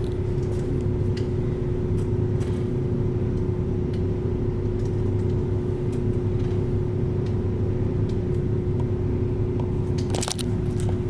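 Steady low rumble with a constant hum, the road noise of a car being driven, with a brief click about ten seconds in.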